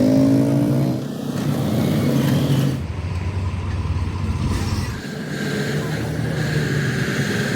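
A motor vehicle's engine running steadily, with road noise. The sound changes abruptly a couple of times.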